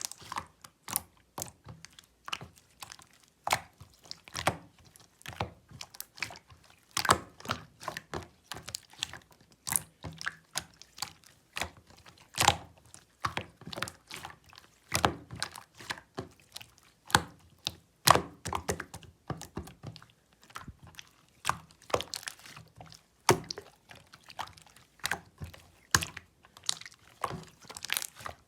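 Clear slime being squished and pressed by hand, giving irregular sticky clicks and pops several times a second.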